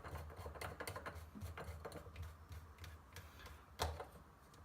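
Drain pipe sections being handled and worked loose, giving irregular light clicks and taps, with one sharper knock near the end.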